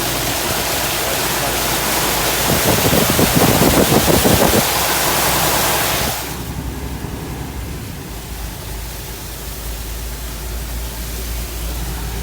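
A truck driving through flood water on the road: a dense rushing hiss of water spray from the tyres, choppiest and loudest in the middle. About 6 s in the hiss drops away suddenly, leaving a low steady rumble of the truck.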